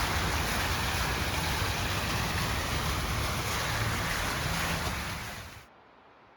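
Steady loud rushing noise with a fluctuating low rumble, cutting off abruptly near the end.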